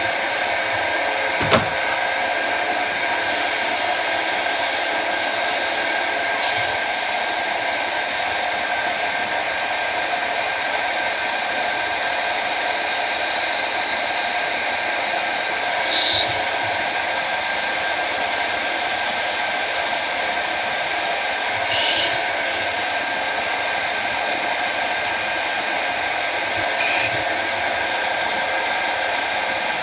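Jet TL-25 lathe running steadily with a hiss and a steady hum. A sharp click comes about a second and a half in, and the hiss grows louder about three seconds in.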